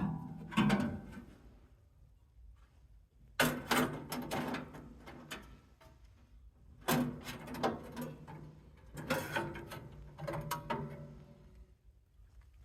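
Bouts of metal clanking and rattling from handling the Wood-Mizer LT35 bandsaw mill while its dull band blade is changed, coming in about four separate bursts.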